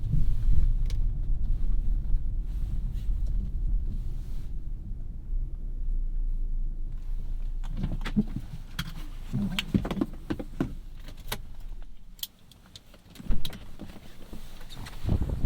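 Inside a 2017 Audi A3's cabin: the 2.0-litre turbocharged four-cylinder and road noise give a low rumble that fades away, followed by a series of clicks and rattles, a sudden drop to quiet, and one sharp knock.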